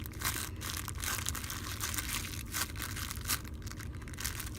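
Crinkling, rustling handling noise from a foam donut squishy toy being squeezed and turned in the hands, with irregular small crackles throughout.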